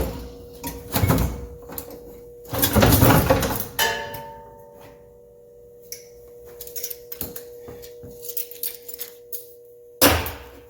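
Heavy tools and equipment being handled in a service truck's storage box: several loud clunks and a longer scraping rattle in the first few seconds, then light clicks and one more loud clunk near the end, over a faint steady hum.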